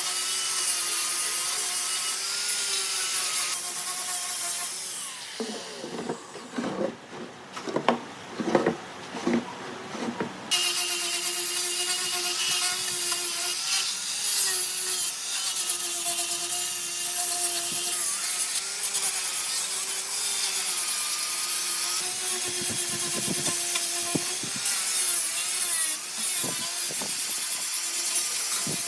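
An electric power tool working wood, running with a steady whine over the rasp of the cut. Around five seconds in the tool stops for about five seconds; only irregular scraping strokes are heard until it starts again.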